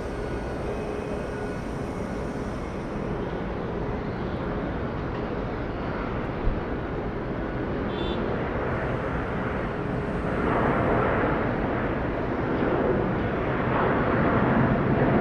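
Jet airliner engine noise, a steady rushing that grows louder in the second half as the aircraft comes closer. A brief sharp click about halfway through.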